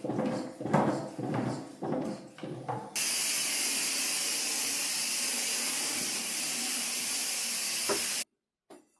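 A run of uneven knocks and rattles, then a loud, steady hiss like steam or spraying water that cuts off suddenly near the end.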